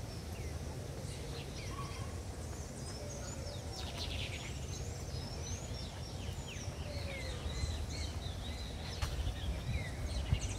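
Several birds chirping and calling in short, quick notes, some falling in pitch, over a steady low rumble.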